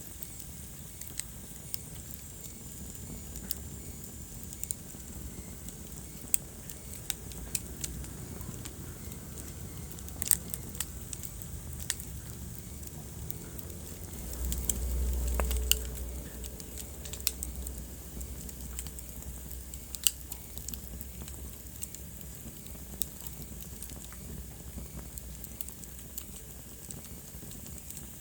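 Wood fire burning in a fireplace, crackling with irregular sharp pops over a low rumble of flames. The rumble swells briefly about halfway through.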